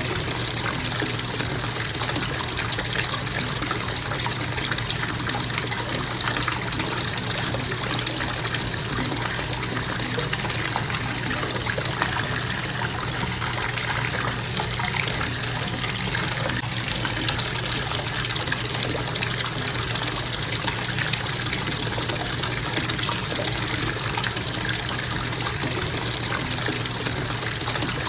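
Bathtub faucet running at a constant flow, water pouring steadily into the tub.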